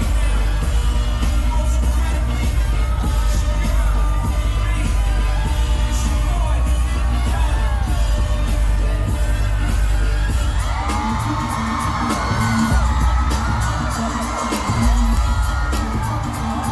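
Loud live pop music with a heavy bass beat and singing, played over a concert sound system. From about ten seconds in, a crowd of fans screams high over the music.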